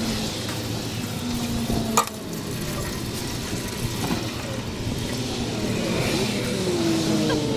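Oil trickling and splashing into a drain pan under the DD13 engine, an even hiss with a sharp click about two seconds in.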